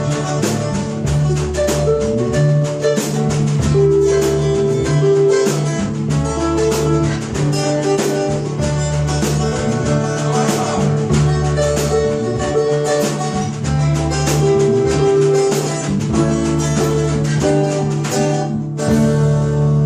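A blues rock band playing without vocals: a guitar line over held bass notes and steady drums and cymbals. Near the end the drums stop and held notes ring on.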